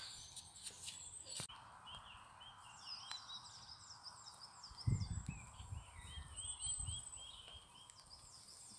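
Songbirds singing outdoors: a run of quick, repeated chirping notes. A low rumble comes in about five seconds in and fades after a couple of seconds.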